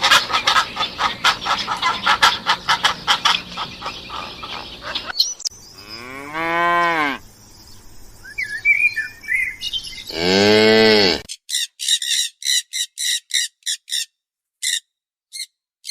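Cow mooing twice, two long calls that rise and fall in pitch, about six and ten seconds in. Before them comes a busy, rapidly pulsing animal sound, and after them a run of short, high chirps, a few a second.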